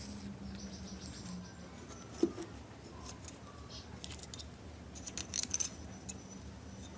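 Light clicks and taps of small parts being handled, with one louder knock about two seconds in and a quick run of clicks a little past five seconds, over a faint steady hum.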